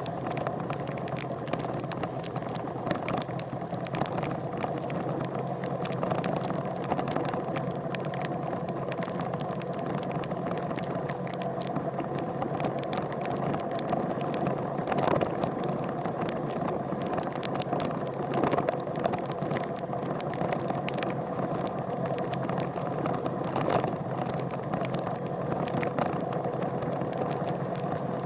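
An engine running steadily, with scattered clicking and rattling over it.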